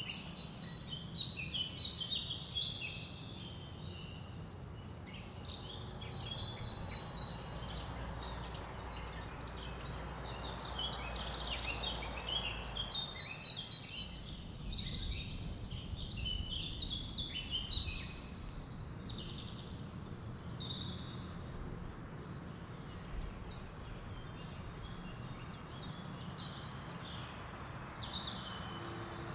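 Several songbirds chirping and trilling in a forest, short rapid calls overlapping throughout, over a steady low rumble.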